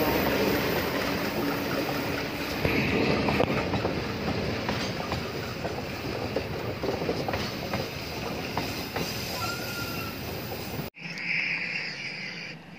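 Passenger coaches rolling past close by, their steel wheels clacking over the rail joints, with a brief wheel squeal about nine seconds in. The sound fades slowly as the train draws away, then cuts off abruptly near the end.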